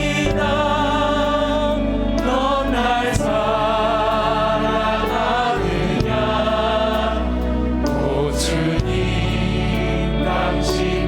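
Church praise band playing a slow worship song: held keyboard chords and a steady bass, with sustained, wavering singing voices over them.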